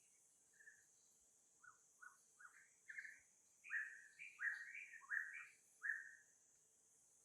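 A series of about a dozen short, high animal calls, each a brief rising or falling note, getting louder as they go and stopping about a second before the end.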